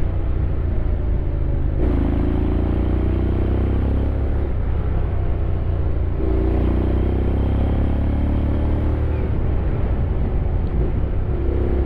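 Honda X-ADV 750's parallel-twin engine under way with a deep rumble. Its note climbs steadily, drops back sharply about two seconds in and again about six seconds in as it changes up, then climbs again each time.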